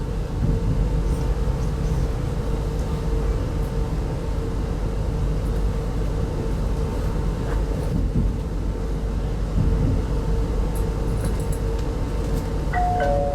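Steady running rumble inside a 25T passenger coach in motion, with a constant hum. Near the end a two-note tone, higher then lower, sounds over it, like a public-address chime.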